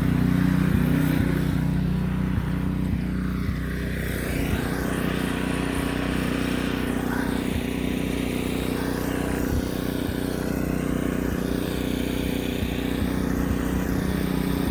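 Gas-powered pressure washer running steadily, its engine a constant drone under the hiss of the water spray.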